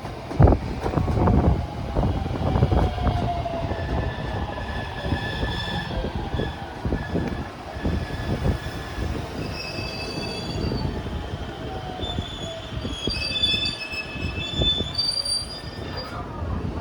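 Electric train running along the track: wheels clattering over rail joints with a falling whine, and high-pitched wheel squeal in the second half.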